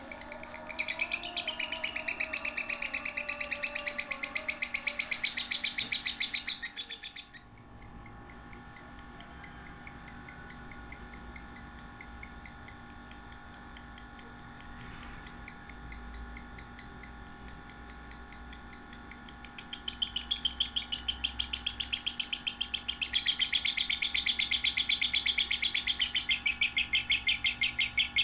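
Lovebird singing: a long, unbroken run of rapid, high, repeated chirps. The pattern shifts about a quarter of the way in, and it grows a little louder and denser about two-thirds of the way through.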